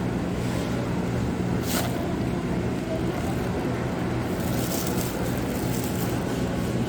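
Steady engine and road noise inside a moving car: a low, even hum, with a brief click about two seconds in.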